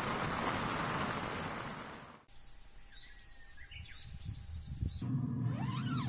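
A steady hiss of rain that cuts off about two seconds in, followed by a quieter stretch of birds chirping. Near the end a low steady hum comes in, with another chirp over it.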